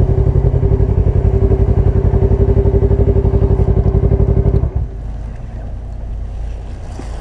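Motorcycle engine running with a fast, even pulse, then cut off suddenly about four and a half seconds in, leaving a quieter steady rumble.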